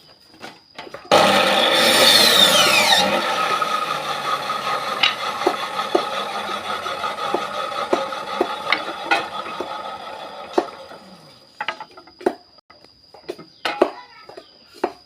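Maktec electric power tool cutting through wood. It starts suddenly about a second in with a falling whine, is loudest for the first couple of seconds, then fades out over several seconds. Scattered knocks follow.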